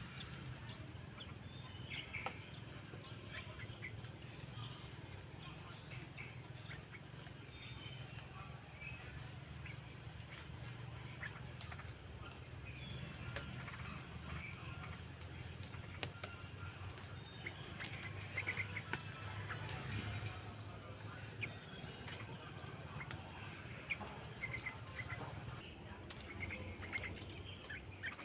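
Outdoor nature ambience: an insect trills in short, evenly pulsed bursts that repeat every few seconds, over a steady high hiss. Scattered short bird chirps come through it.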